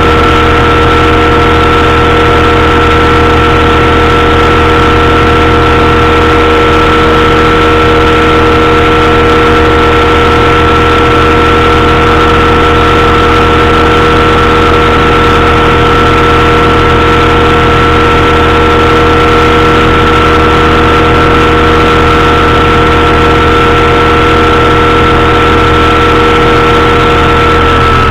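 Powered parachute's engine and propeller running loud and steady at a constant throttle in flight.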